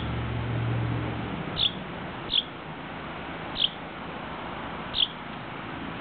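A baby bird chirping: five short, high chirps at uneven intervals over a steady background hiss. A low hum fades out about a second in.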